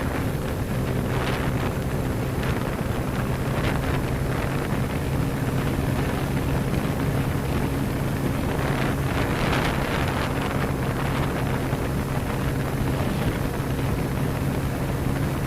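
Motorcycle engine running at a steady cruising speed, a constant hum that holds one pitch, under heavy wind rush on the microphone, with a few brief gusts.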